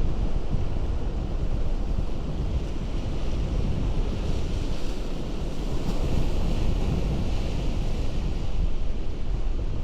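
Ocean surf breaking on a rocky shore: a continuous rush of water with a heavy low rumble of wind on the microphone. A brighter hiss of washing water swells through the middle.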